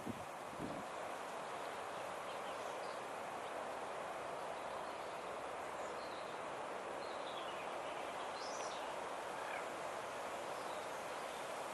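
Steady rushing outdoor wind noise, with faint high bird calls scattered through the middle: short chirps and a few quick falling notes. A couple of low knocks sound right at the start.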